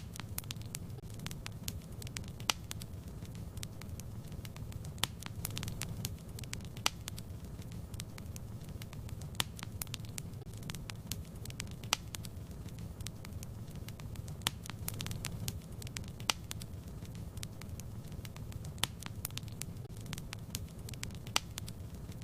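Wood fire in a fireplace crackling, with a steady low rumble of the flames and irregular sharp pops and snaps, several of them louder.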